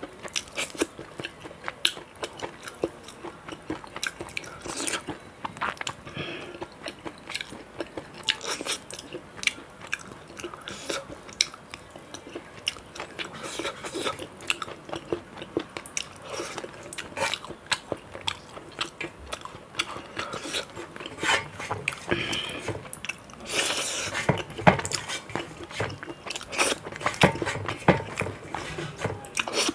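A person eating close to the microphone: wet chewing and crunchy bites with many irregular mouth clicks and smacks.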